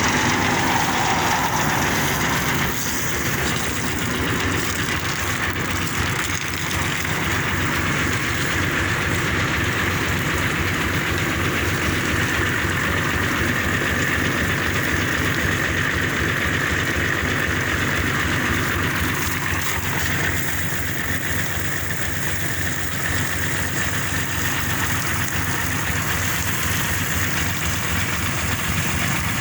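An engine running steadily at idle, with an even low throb and a steady hiss over it.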